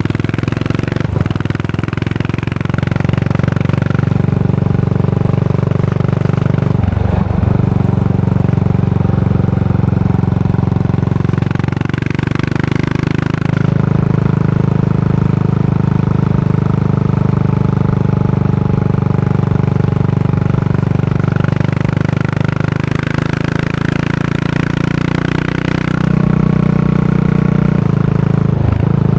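A Yamaha SR400's air-cooled single-cylinder four-stroke engine runs under way through a Goods Tapered Cone slip-on muffler, giving a steady exhaust note. The engine note dips briefly about seven seconds in and again near the end, and gets louder a few seconds before the end.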